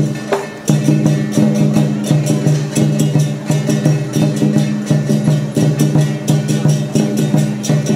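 Lion dance troupe's traditional percussion music: drums, gongs and cymbals struck in a fast, even beat over a sustained low ringing. There is a brief break just under a second in.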